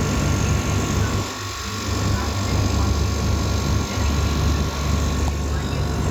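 Voltas window air conditioner running: a steady low hum with fan rush, dipping briefly about a second and a half in.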